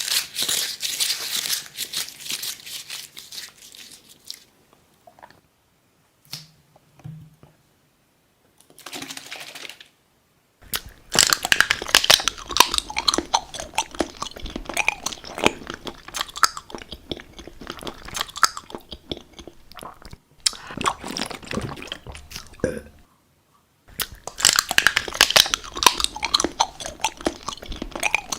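Close-miked ASMR eating sounds: bursts of crunching and chewing on crisp food, separated by short pauses. The first few seconds are a crinkly rustle.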